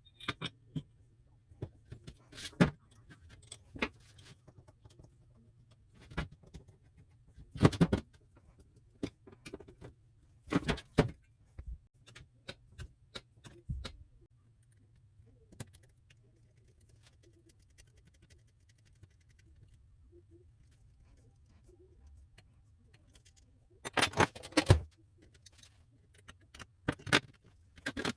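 Irregular metallic clinks and clanks of tools and metal parts being handled, in scattered clusters with quiet gaps between, the loudest near the end.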